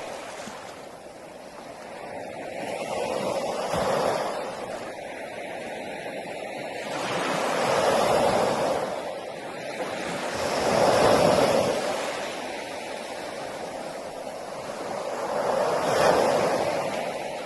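Sea waves washing on a shore, the surf swelling and fading four times in slow, irregular surges.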